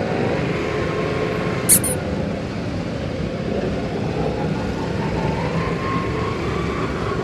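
Yamaha YBR 125's single-cylinder four-stroke engine running steadily at low speed as the motorcycle rolls slowly along. There is a brief high-pitched squeak about two seconds in.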